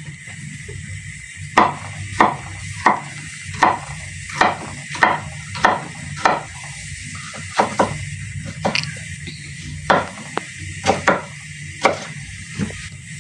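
A kitchen knife chopping on a cutting board: a series of sharp knocks, roughly one every half to three-quarters of a second, with a few short pauses.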